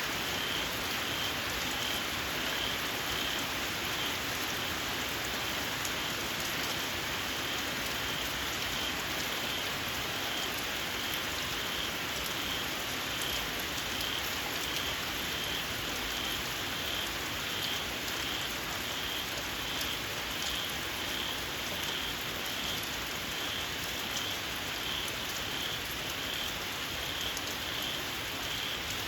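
Steady rain falling, with a small frog giving a high-pitched call, repeated at an even pace, over the rain.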